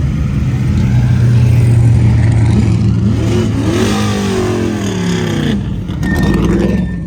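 Car engine running loudly with a steady low drone, then revving up and down in pitch around the middle, with an abrupt change in the sound near the end.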